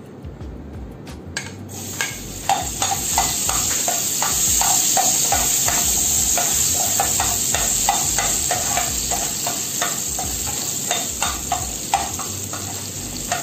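Chopped ginger sizzling in hot cooking oil in a frying pan, the hiss starting about a second and a half in as it goes into the oil. A spoon knocks and scrapes against the pan again and again as the ginger is stirred.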